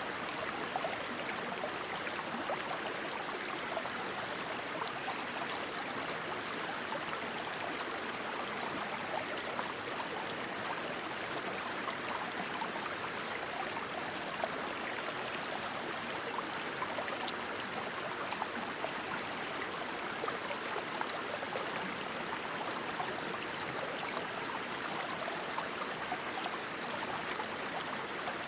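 Rushing stream water running steadily, with short high-pitched chirps scattered irregularly over it and a quick rapid trill about eight seconds in.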